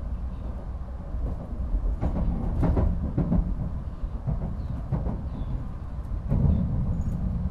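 Shinkansen running at speed, heard inside the vestibule: a steady low rumble with irregular knocks and rattles starting about two seconds in.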